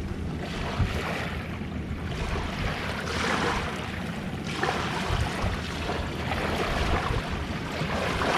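Small waves washing onto the shore in repeated surges every couple of seconds, with wind rumbling on the microphone.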